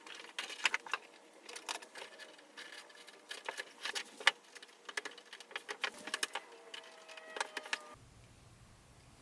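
Hands handling a model train set's packaging and parts: irregular clicks, taps and crinkles, with a few faint squeaks in between. The handling stops abruptly about eight seconds in, leaving only a low hiss.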